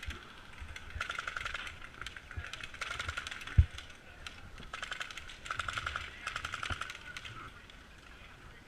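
Airsoft guns firing short bursts of rapid, evenly spaced clicking shots, several bursts in a row. A single low thump comes about three and a half seconds in.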